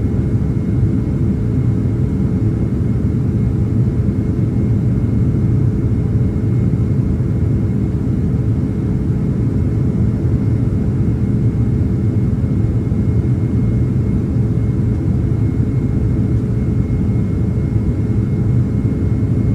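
Steady cabin roar of a Boeing 767-300ER jet airliner in flight, heard from inside the cabin, with a faint steady high whine over the low rumble.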